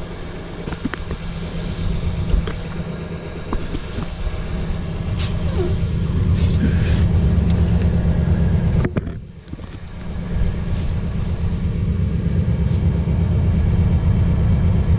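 Diesel truck idling with a steady low rumble while it runs a particulate-filter regeneration, with a few light clicks over it.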